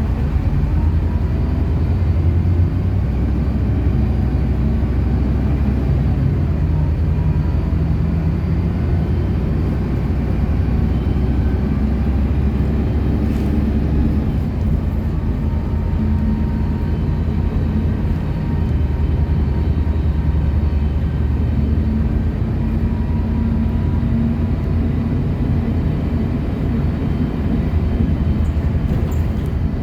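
City bus running along the road: a steady low engine drone with faint whining tones that shift in pitch as the engine speed changes.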